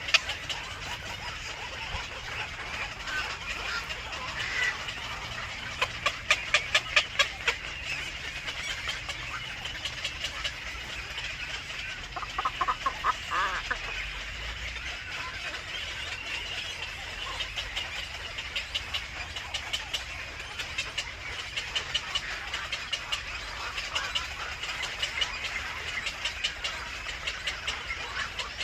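Birds calling over a steady high chirring background: a rapid run of sharp chirps about six seconds in, more rapid chirps around ten seconds, and a short series of lower clucking notes about twelve seconds in.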